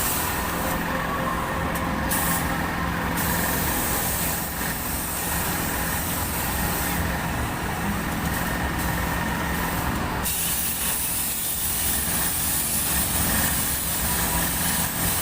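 Toy airplane kiddie ride running: a steady mechanical hum with a hiss that comes and goes.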